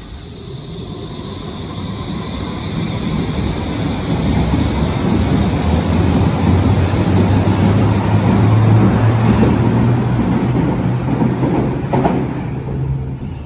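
Berlin U-Bahn large-profile train running, growing louder over several seconds, with a low motor hum that rises slightly in pitch as it picks up speed.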